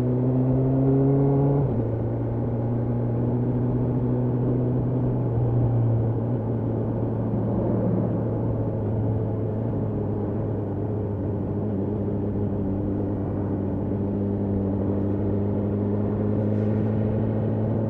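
BMW S1000R's inline-four engine under way: the revs climb, drop suddenly about one and a half seconds in, then hold nearly steady with a small rise and fall around five to six seconds in.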